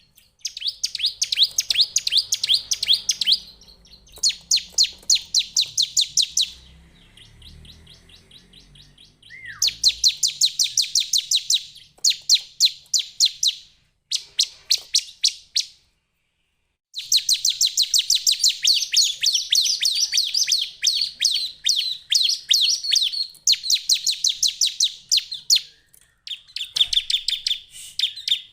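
Bar-winged prinia (Prinia familiaris) singing: fast runs of sharp, high chirps, about seven a second, in bursts of a few seconds with short pauses between them.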